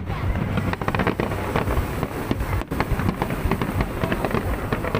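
Fireworks display: many bangs and crackles in quick succession over a continuous low rumble.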